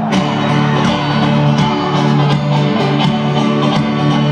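Live folk-rock band playing an instrumental passage: fast-strummed acoustic guitar and banjo over bass and drums, the full band striking in together at the start and driving on at a steady beat.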